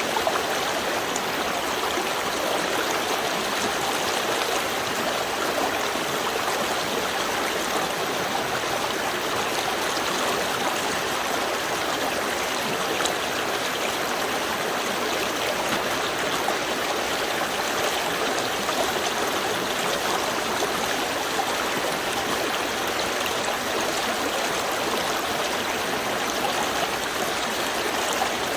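Small river stream flowing, a steady wash of running water with light gurgling.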